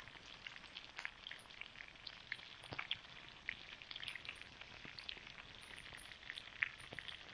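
Chicken fillet, potatoes and eggs frying in a skillet over a campfire: a quiet, steady sizzle dotted with many small pops and crackles.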